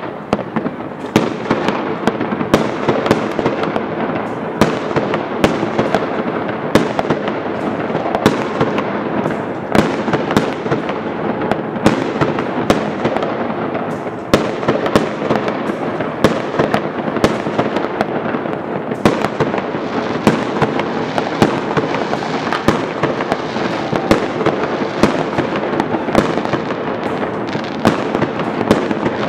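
Many fireworks going off at once, rockets and aerial shells bursting: sharp irregular bangs several times a second over a constant din of more distant bangs and crackling.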